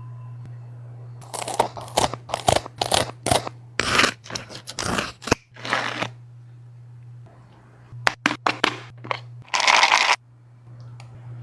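A dog crunching and chewing food in quick, irregular bites, in two spells with a pause of about two seconds between them.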